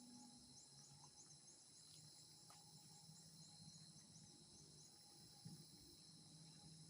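Faint steady high-pitched insect drone, with a run of faint short high chirps over the first few seconds.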